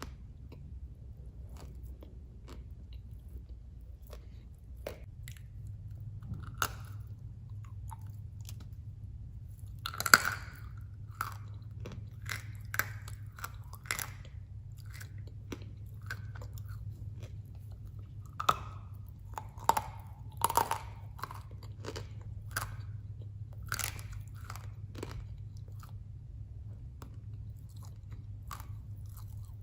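Dry, hard blocks of edible khawa clay being bitten and chewed close up: irregular crisp crunches and cracks, with a loud bite about a third of the way in and a cluster of loud crunches about two-thirds through.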